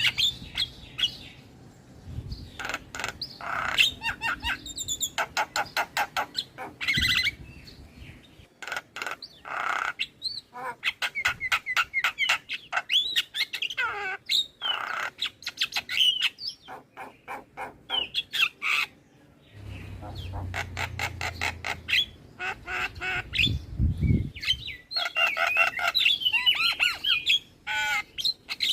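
Javan myna chattering song: fast runs of harsh, clicking notes mixed with whistles, coming in bursts with short pauses between them.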